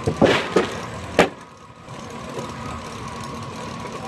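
1926 Keck Gonnerman steam traction engine and belt-driven sawmill running with a steady hum and a faint steady whine. A cluster of loud, sharp sounds comes in the first half-second, and another about a second in.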